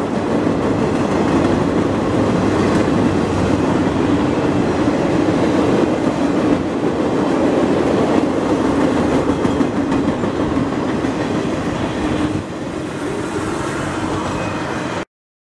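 Welded rail train's flatcars with their rail racks rolling past at trackside: a steady, loud noise of steel wheels on rail. It drops a little about twelve seconds in as the tail end of the train goes by, then stops abruptly just before the end.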